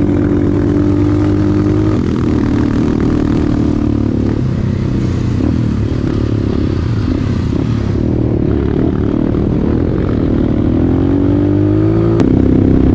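Motorcycle engine running while riding: steady at first, turning rough and uneven after about two seconds, then climbing in pitch near the end before a sudden change in pitch.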